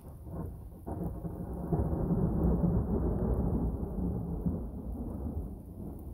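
Thunder rolling: a low rumble that sets in about a second in, is loudest around two to three seconds, then slowly dies away.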